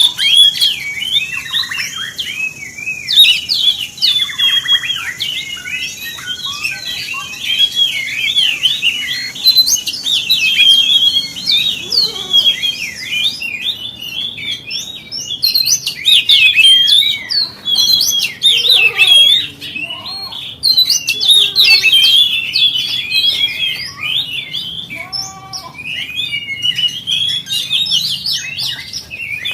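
Oriental magpie-robin (kacer) singing without a break, a fast, varied stream of loud whistles, trills and chirps.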